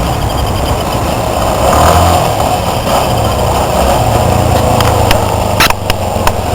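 Motorcycle engines running loudly, swelling about two seconds in and again later, with a few sharp clicks near the end.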